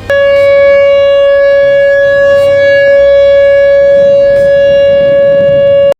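WS 3000 warning siren sounding one loud, steady tone with strong overtones that does not rise or fall, cutting off suddenly at the end.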